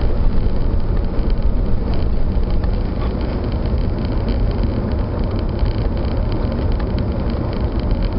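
Vanden Plas Princess 4 Litre R's Rolls-Royce 4-litre six-cylinder petrol engine running steadily on the move, heard from inside the car, with a serious exhaust blow. The engine is missing, running on about five cylinders.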